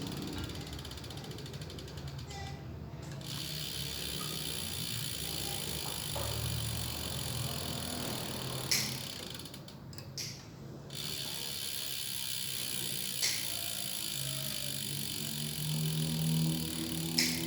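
Novatec F482SB rear hub freewheeling: the freehub's pawls click rapidly against the ratchet as the wheel coasts, fading out briefly twice before the buzz picks up again. A few louder single clicks stand out along the way.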